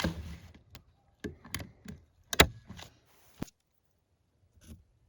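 A quick series of sharp clicks and knocks, about eight in three and a half seconds, the loudest about two and a half seconds in, then a single faint knock near the end.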